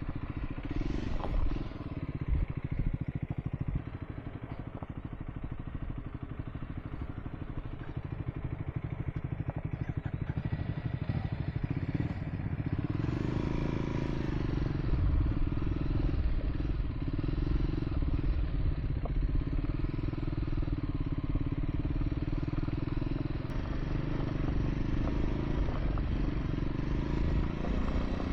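Triumph Scrambler 400 X's single-cylinder engine running as the motorcycle is ridden along. About twelve seconds in, the engine note rises and grows louder, then holds steady.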